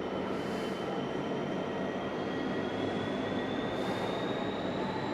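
GBRF Class 66 diesel-electric freight locomotive pulling away under power, with a steady engine rumble. A thin whine rises slowly in pitch as it gathers speed.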